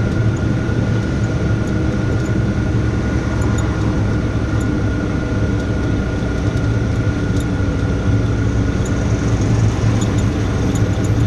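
Tata Signa trailer truck's diesel engine and road noise, heard inside the cab while cruising. The hum is steady, with a thin constant whine above it.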